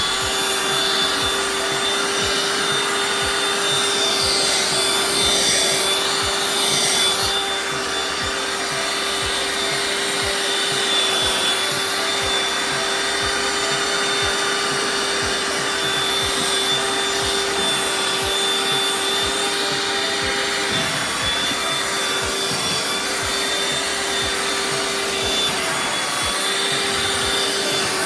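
Vacuum cleaner motor running steadily, used to vacuum a cat's fur. It has a constant hum and a high whine over a rush of airflow, and its pitch dips briefly twice in the second half.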